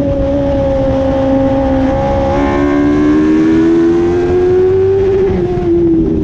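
Dwarf race cars' motorcycle-type engines running hard at high revs. The pitch sags a little, climbs again from about two and a half seconds in, and eases off near the end.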